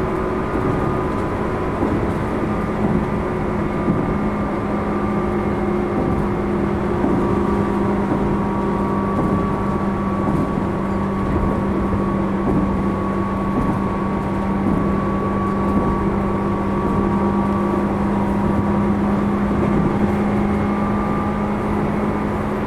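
Tobu 10000 series electric train running at a steady speed, heard from inside a motor car: a rumble of wheels on rail with a steady hum and faint whine that hold one pitch throughout.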